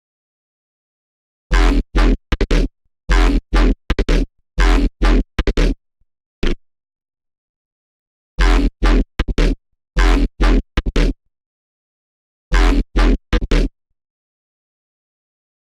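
Serum wavetable synthesizer patch, built from an AI-generated image, played as short, clipped notes with a heavy bass low end. The notes come in phrases of a few notes each, with silent gaps of about one to two seconds between phrases.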